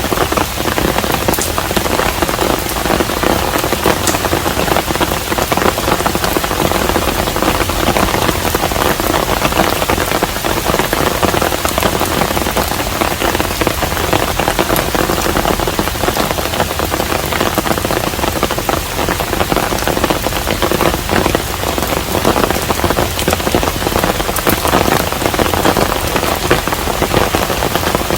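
Steady, heavy rain falling on a hanok, a traditional Korean house: a dense, even patter of drops with no let-up.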